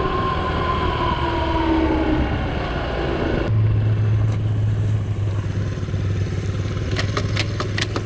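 Honda CT70's small single-cylinder four-stroke engine dropping in pitch as the bike slows to a stop, then settling into a steady low idle about three and a half seconds in. A few sharp clicks near the end.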